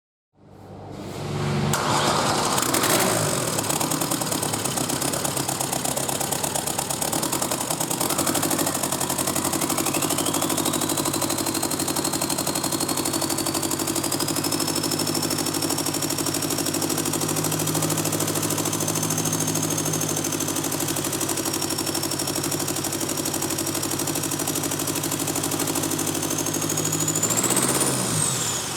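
Opel Combo 1.3 CDTI (Z13DTJ) four-cylinder turbodiesel engine starting about two seconds in, then running steadily. A thin high whine climbs slowly in pitch through the run, and there is a short rev near the end.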